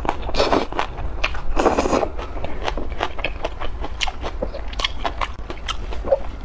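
Close-miked eating of a fried lettuce skewer: two louder bites within the first two seconds, then chewing with many small, wet mouth clicks.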